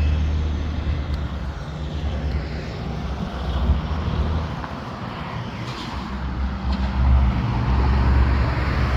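Low, steady engine rumble from a car running nearby. It fades through the middle and swells again near the end.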